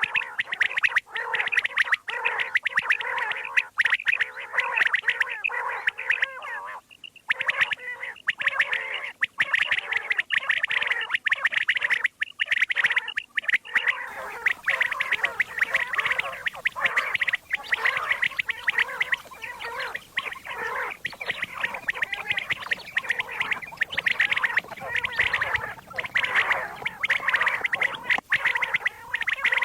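Common quail calling over and over in a dense, rapid chatter, played as a lure call for quail hunting. The recording changes character about halfway through.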